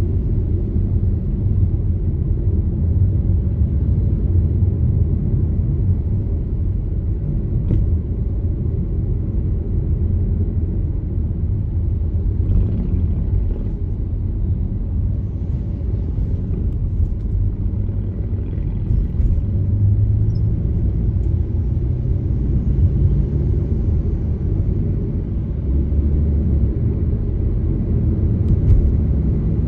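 Steady low rumble of a car driving along the road, engine and tyre noise, with a couple of faint clicks.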